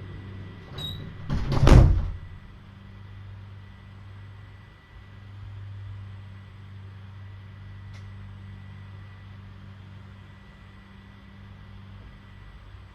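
A door shutting, loudest about two seconds in, followed by a steady low hum.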